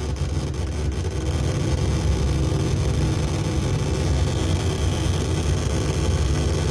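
DIY noise synthesizer, the Mancalitron, putting out a dense, low buzzing drone with a rapid flutter. A faint high tone joins in about four seconds in.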